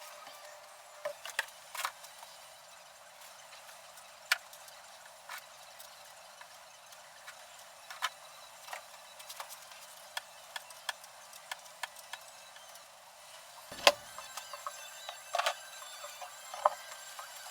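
Scattered light clicks and taps of tools and small parts being handled during brake work, about a dozen single strikes with a louder cluster near the end.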